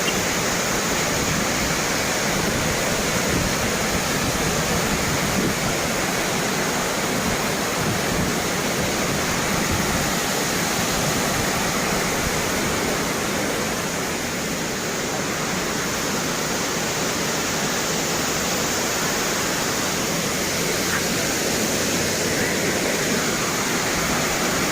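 Waterfall rushing: a dense, steady roar of falling water, close to the falls.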